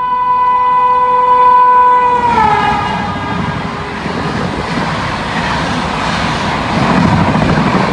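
A train horn sounds steadily, then drops slightly in pitch about two seconds in as a train passes close by, and fades out. The loud rush and rumble of the passing train follows.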